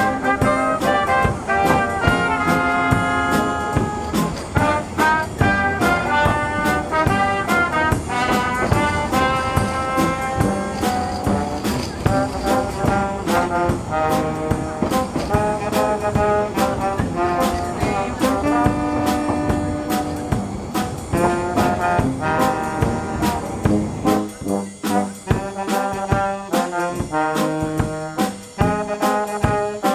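Brass music with a steady beat: trombones and trumpets playing a tune, the bass dropping away about three-quarters of the way through.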